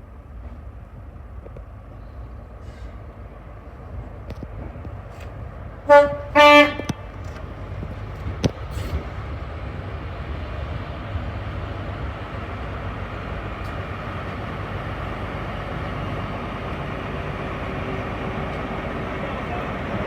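Train horn giving two blasts about six seconds in, a short one then a slightly longer one. A passing rail move, most likely a pair of high-speed train power cars, rumbles and grows steadily louder as it approaches.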